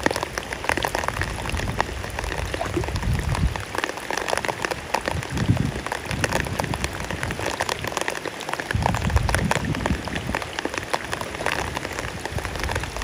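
Heavy rain falling on a river's surface, a dense, steady patter of drops. A low rumble comes and goes underneath it several times.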